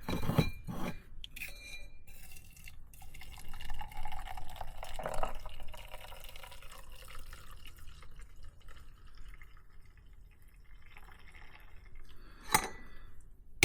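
Hot water poured from a pot into a cup for coffee, a few seconds of pouring and filling, with light clinks at the start and a sharp knock near the end.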